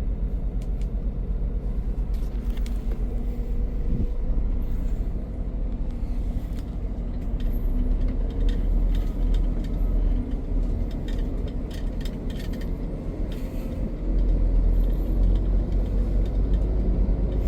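Heavy truck engine and road noise heard from inside the cab: a steady low rumble that grows a little louder in the last few seconds, with scattered light clicks and rattles.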